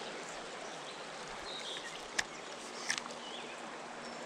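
Steady rush of a flowing river, with a few faint high chirps and two sharp clicks, about two seconds and three seconds in.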